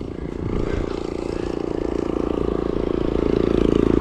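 A small engine running steadily with a fast, even putter, growing louder.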